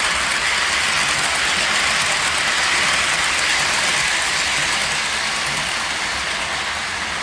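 Model train running on the layout track: a steady, even whirring and rolling noise from the locomotive's motor and the wheels on the rails, holding level throughout.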